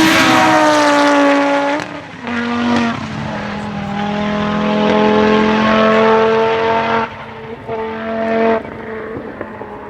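Rally car engine going by close at full throttle, its note sliding down as it passes. It then lifts off briefly and accelerates away, the engine note breaking off twice more near the end as it changes gear and fades into the distance.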